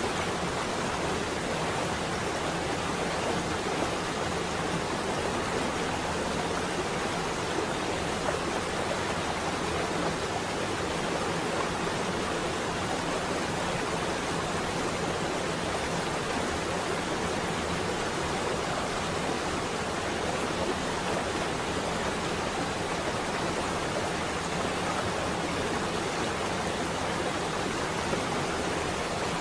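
Steady rain on a window, an even, unbroken hiss with no thunder claps.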